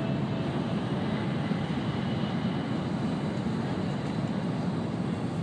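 Steady rumble and rushing of an N700-series Shinkansen, heard from inside the passenger car as it runs at speed.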